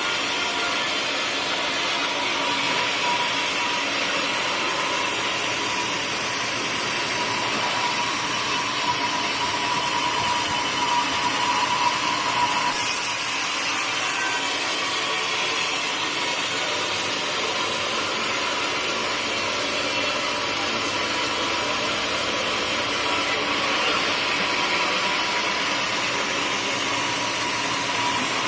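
Sawmill saw running and cutting through teak wood: a steady machine noise with a whine that grows stronger about ten seconds in, then eases.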